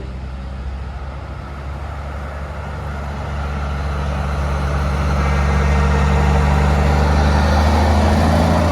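Heavy truck engine running as the truck drives slowly past, the engine and road noise growing louder over the second half.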